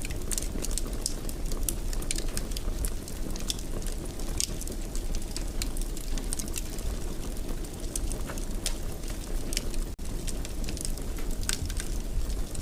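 Wood fire burning in a fireplace: a steady low rumble of flames with frequent small, irregular crackles and pops. The sound drops out for an instant about ten seconds in.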